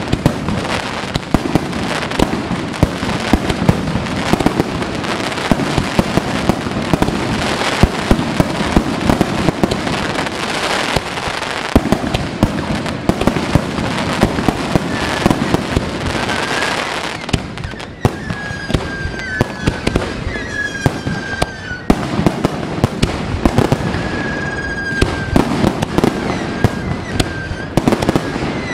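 Fireworks going off in rapid succession: aerial shells bursting with many sharp bangs over a dense, continuous crackle.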